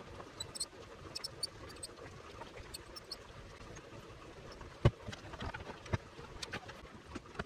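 Small clicks and light taps of parts being handled and fitted together while a portable power station is being reassembled. Two louder knocks come about five and six seconds in.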